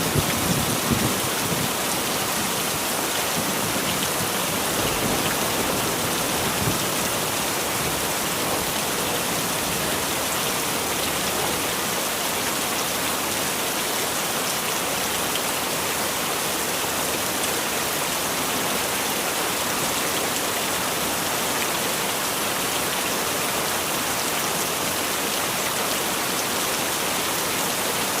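Heavy rain falling steadily. A low rumble of thunder fades out in the first second or so.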